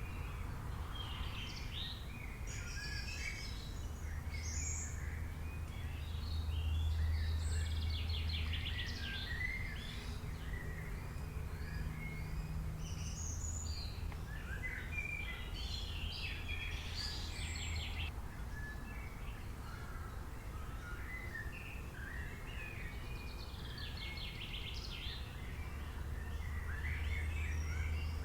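Several wild birds chirping and trilling, many short calls overlapping, over a steady low rumble of background noise that swells a few seconds in and again near the end.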